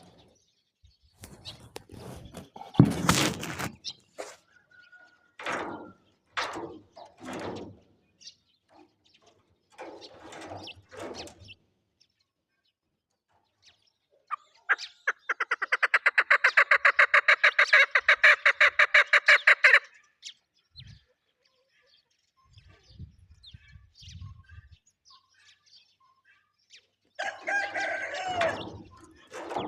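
Female chukar partridge calling: scattered short calls, then about five seconds of a loud, rapid, evenly pulsed chattering series in the middle, with a few more calls near the end.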